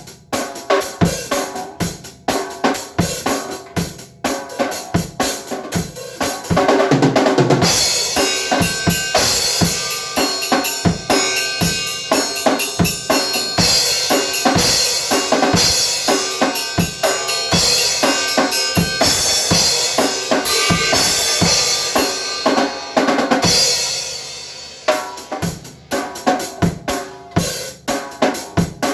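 A drum kit being played: a quick run of drum hits, with cymbals ringing almost continuously over the hits through the middle of the passage, then separate hits again near the end.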